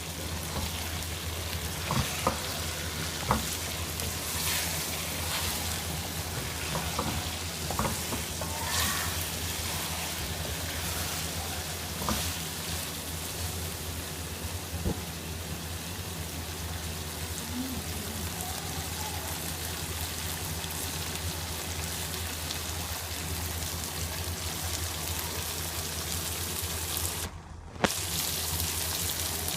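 Food sizzling steadily as it fries in a pan, over a low steady hum. A spoon clicks against the pan now and then as the food is stirred, and the sound cuts out for an instant near the end.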